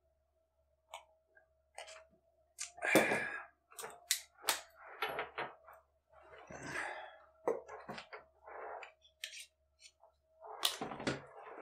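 Scattered knocks, thuds and rustling from handling a heavy sheepskin coat on a wooden table as it is turned over, with a faint steady hum underneath.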